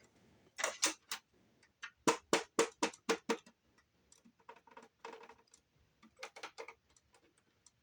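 Boombox CD mechanism clicking as the laser unit moves in and out while trying to read a disc: sharp clicks about a second in, then a quick run of them from about two to three and a half seconds, fainter ticking after that. The player keeps failing to read the disc, which the owner puts down to a worn-out trigger rather than a bad laser.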